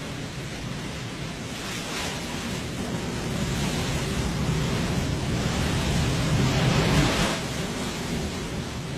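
A steady rushing noise that slowly builds, loudest about seven seconds in, then eases off.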